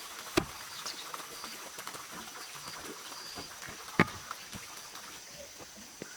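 Two sharp knocks about three and a half seconds apart, over a steady high-pitched hum and faint short chirps.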